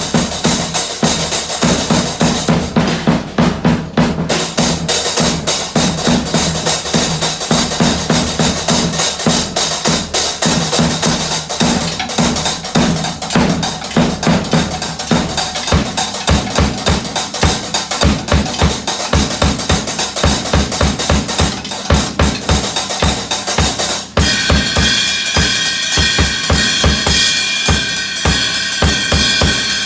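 Drums played in a fast, busy beat with dense rapid strikes; deep regular beats come in about halfway through. Near the end, steady high ringing tones join the drumming.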